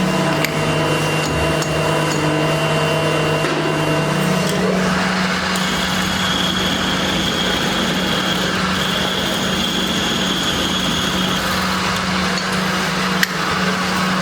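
Workshop machinery running steadily: a loud motor hum that shifts in pitch about four seconds in, with a high whine through the middle and a single sharp click near the end.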